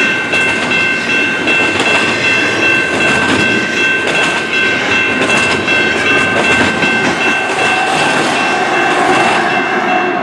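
Intermodal freight cars rolling slowly past, wheels clacking over the rail joints amid a dense rumble. A steady high-pitched ringing tone runs over it throughout.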